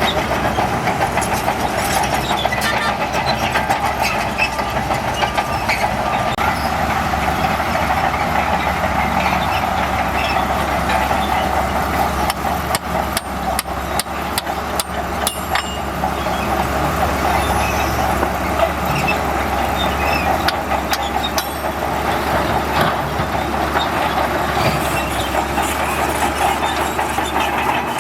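Crawler bulldozer's diesel engine running steadily under load, with metallic clanks and rattles from its tracks and blade, a cluster of sharp clanks about halfway through.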